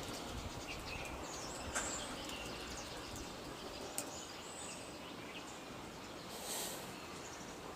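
Outdoor ambience: a steady background hiss with scattered short, high bird chirps, two sharp clicks about two and four seconds in, and a brief high rush of hiss near the end.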